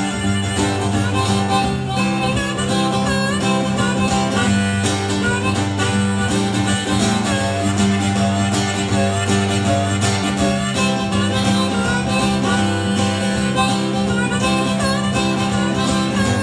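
Live country band playing an instrumental break of the song between verses, with no singing.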